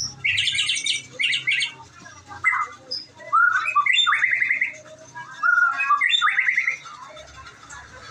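White-rumped shama (murai batu) singing: three bursts of quick, varied whistled phrases and trills, the song falling quiet for the last second or so. A faint steady low hum runs beneath.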